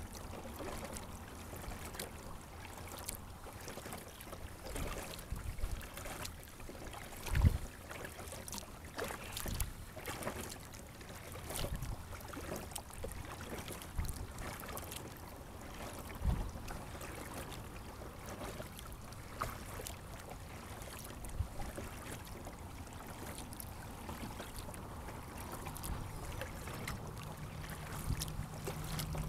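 Water splashing and lapping at a sit-on-top kayak, picked up by a camera mounted on the boat, with scattered knocks on the hull; the loudest is a thump about seven seconds in, with another about sixteen seconds in.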